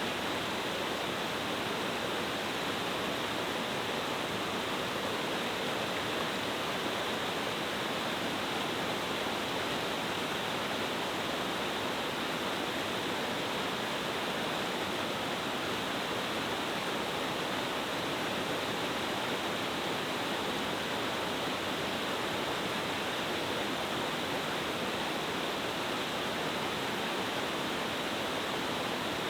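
Multi-tiered mountain-stream waterfall cascading over rocks, a steady, unbroken rush of falling water.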